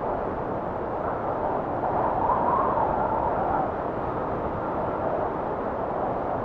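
Blizzard wind blowing steadily, with a gust swelling about two seconds in that carries a faint whistle before easing back.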